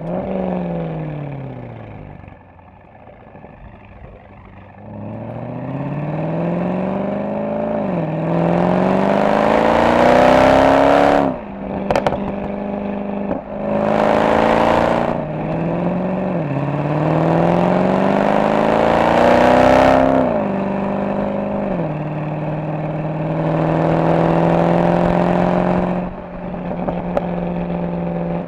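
Mercedes-AMG SL63's V8 engine and exhaust. It slows to a quiet lull, then accelerates hard through several gears: each pull rises in pitch, swells loud and is cut by a drop at the upshift, with a sharp pop about halfway. For the last few seconds it settles into steady cruising.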